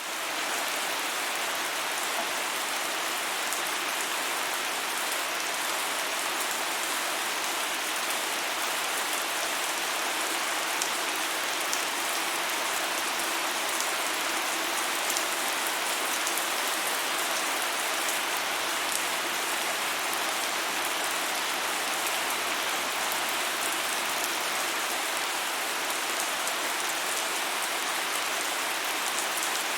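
Steady rain falling: a dense, even hiss of water with fine ticks of individual drops.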